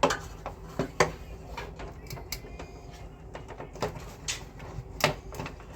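Scattered sharp clicks and knocks, about half a dozen, over a steady low hum, typical of parts and tools being handled during work on an air conditioner's indoor unit.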